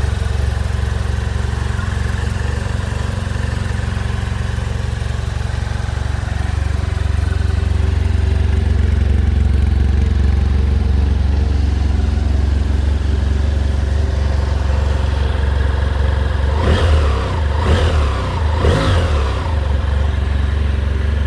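BMW F800 R's parallel-twin engine idling steadily, then revved three times in quick succession near the end, each rev rising and dropping straight back to idle.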